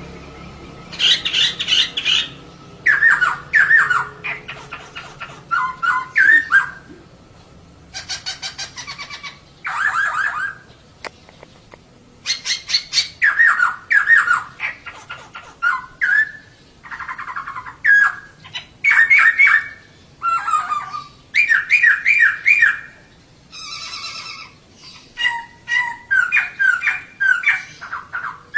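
Female laughingthrush (poksay) calling: a rapid series of short chattering bursts of quick repeated notes, each lasting about a second, with short pauses between them.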